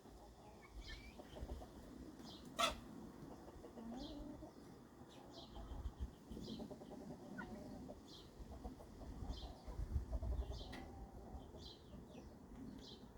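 Dresdner chicks peeping: many short, high, falling peeps, with a single sharp click about two and a half seconds in and a low rumble underneath.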